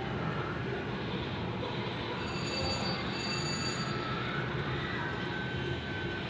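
Casino floor din: a steady wash of slot machines and crowd noise. High electronic slot-machine chimes ring out for about a second, starting just over two seconds in.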